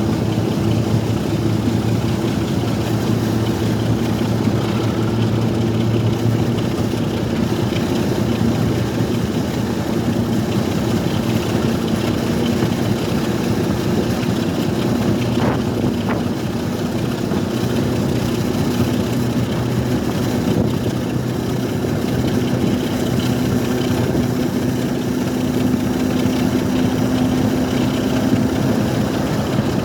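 Diesel railway engine running steadily and loud at a constant speed, with a low even note.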